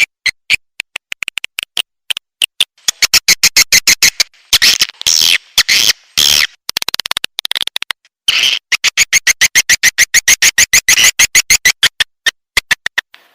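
Recorded swiftlet calls: rapid trains of sharp clicking chirps in bursts, some stretches faster and denser than others. This is a lure call played to attract swiftlets to a nesting house.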